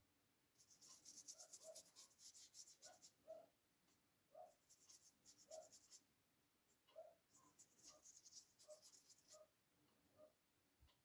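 Faint, fast scratching strokes of drawing on paper, coming in three runs of a few seconds each with short pauses between.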